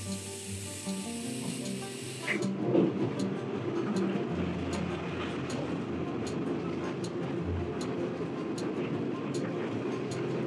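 Kominato Railway train running, heard from on board: a steady rumble with low hum and light regular ticks, over background music. A hiss sounds for the first two seconds and then cuts off suddenly.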